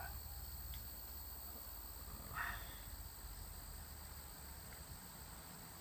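Faint, steady high-pitched trilling of crickets, with a brief faint sound about two and a half seconds in.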